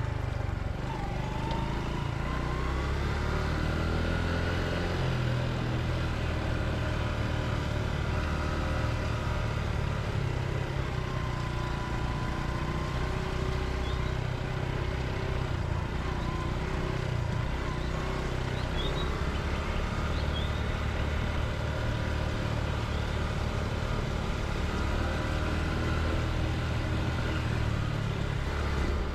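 Honda Cross Cub's single-cylinder four-stroke engine running steadily under way, heard from on the bike with road and air noise.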